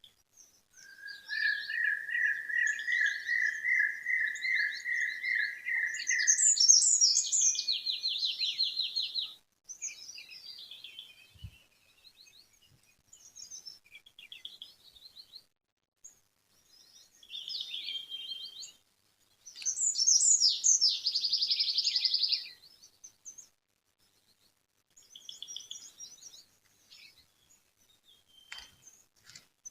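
Songbirds singing: a long, rapid trill of repeated notes for the first several seconds, then bright, quick falling song phrases about six seconds in and again about twenty seconds in, with scattered softer chirps between.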